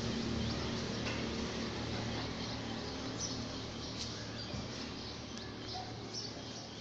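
Small birds chirping: many short, high calls scattered throughout, over a steady low background hum of the surrounding city.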